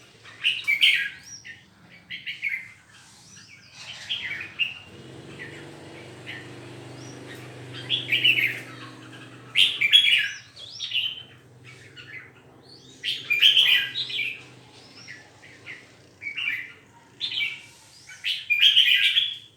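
Caged songbirds chirping and singing in about a dozen short, loud phrases, with pauses between them, and a faint low hum in the middle.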